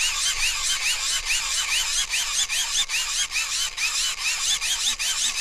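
Hand-cranked wind-up charger being turned to charge a phone: its dynamo gearing whirs with a whine that rises and falls about three times a second, once per turn of the handle.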